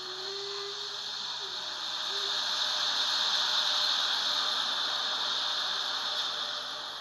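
Electric train passing close by: a DB class 103 locomotive and its passenger coaches rolling along the platform, a steady rushing of wheels on rails that swells as the coaches pass about three to four seconds in, then eases.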